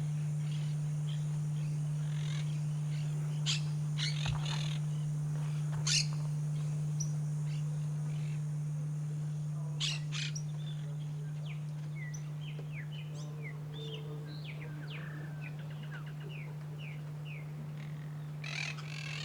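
Wild birds giving short, scattered chirps, then a run of brief falling notes, with a louder burst of calls near the end. Underneath run a steady low hum and a steady high hiss.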